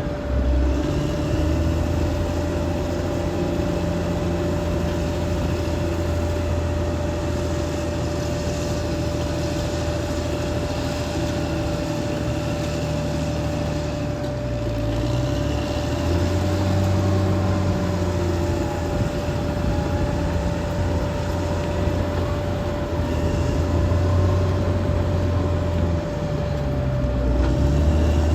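Caterpillar D6R XL bulldozer's diesel engine running under working load, its pitch sagging and recovering about halfway through and again near the end. A steady whine runs under it throughout.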